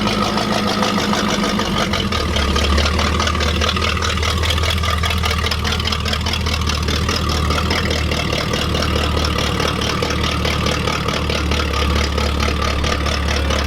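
Car engine idling steadily, its low note shifting slightly about two seconds in.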